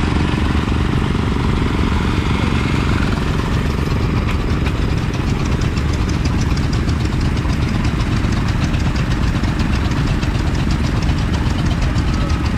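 Vintage stationary engine running steadily with a fast, even beat. A fast regular light ticking joins in about four seconds in.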